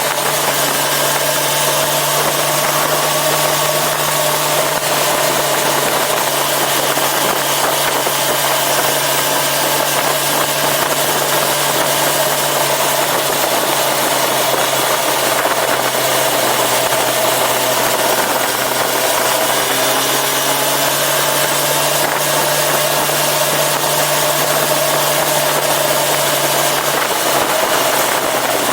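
Yamaha FZ6R sportbike's inline-four engine running at a steady, nearly constant pitch under a dense rushing noise, with only slight changes in engine note.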